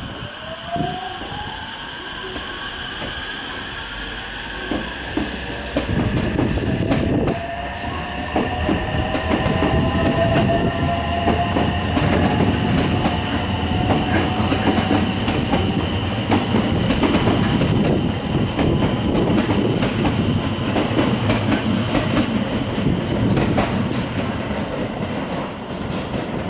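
Electric train pulling through the station. In the first few seconds its motor whine glides upward in pitch, then from about six seconds in the steady rumble and rapid clatter of wheels over rail joints take over and stay loud.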